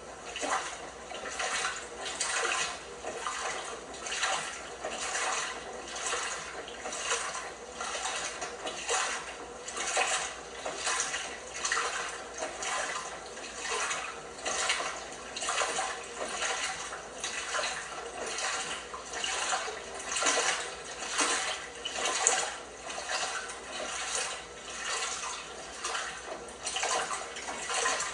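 LG washing machine washing a load: the drum turns and water and wet laundry slosh in steady, rhythmic splashes, about three every two seconds.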